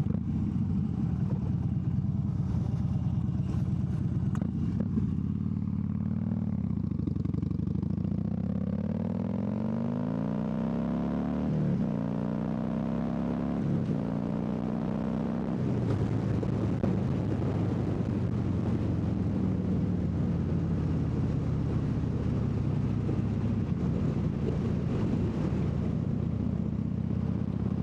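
Harley-Davidson V-twin motorcycle engine accelerating through the gears, heard from the rider's seat. The pitch climbs about eight seconds in, drops at a gear change around twelve seconds, climbs again, and settles after another change near sixteen seconds into steady running at speed.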